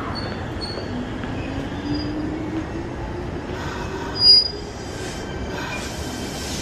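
Kintetsu electric commuter train pulling out of the station, its motor whine rising slowly in pitch as it gathers speed over the running rumble. A brief high squeal about four seconds in is the loudest moment.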